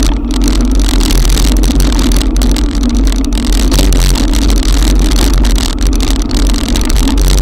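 Heavy rain and wind buffeting an action camera's microphone on a bike ridden through a cloudburst: a loud, steady noise with a strong low drone.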